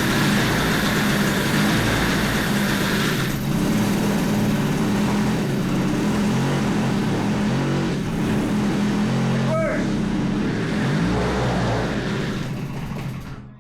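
Peugeot 102 moped's 50 cc two-stroke single-cylinder engine running steadily, its speed wavering a little, with the freshly rebuilt clutch slipping as it should. The sound drops away near the end.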